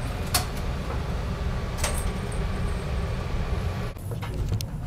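Low steady rumble of the Twilight Express sleeper train as it pulls away, with two sharp clicks, one just after the start and one nearly two seconds in. About four seconds in the sound dips briefly, then a few small clicks follow.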